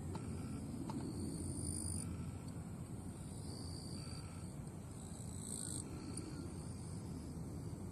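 Outdoor ambience: a steady low rumble with faint, short high-pitched notes recurring every couple of seconds and two brief higher buzzes.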